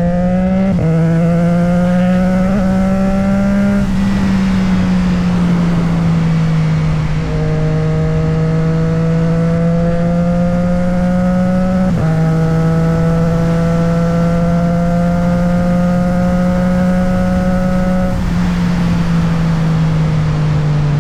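Motorcycle engine under way. It climbs in pitch and shifts up about a second in, eases off for a few seconds, pulls again and holds a steady pitch, then eases off near the end.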